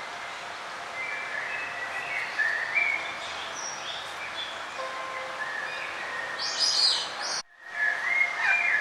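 Wild birds singing and chirping over a steady background hiss, with short warbling phrases and a burst of higher calls. The sound cuts out abruptly for a moment about seven and a half seconds in, then the birdsong resumes.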